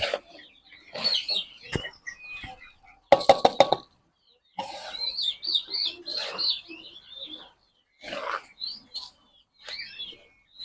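Small birds chirping in quick, repeated short calls, over intermittent rustling and scraping from damp bird feed being mixed by hand.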